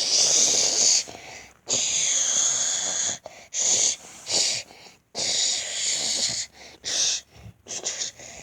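Breathy hissing in repeated bursts of about a second each, with short breaks between them.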